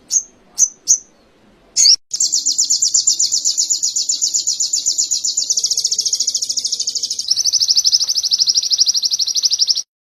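Songbird tutoring recording of canary-style song: a few short high chirps, then from about two seconds in a long, fast, high trill that shifts in tone twice and cuts off suddenly near the end.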